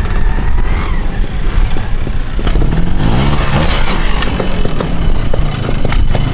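Classic trials motorcycle engine running and revving up and down in short bursts, with a few sharp knocks.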